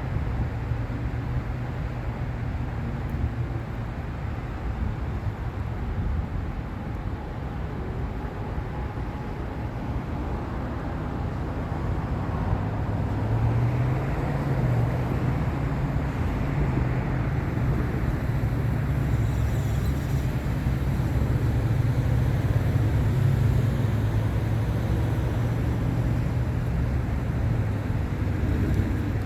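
Steady freeway traffic noise, swelling louder about halfway through.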